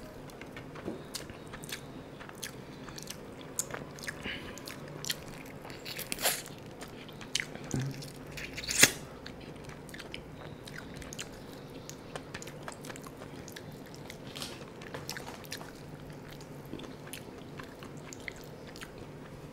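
Close-up mouth sounds of a person chewing and biting a piece of biryani chicken eaten by hand: scattered wet smacks and small clicks, the loudest about six and nine seconds in.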